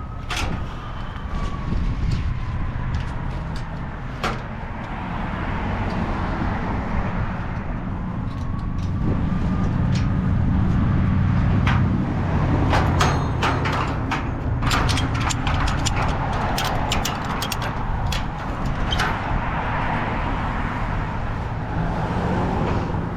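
A heavy vehicle running with a steady low rumble, with many sharp clicks and knocks scattered throughout.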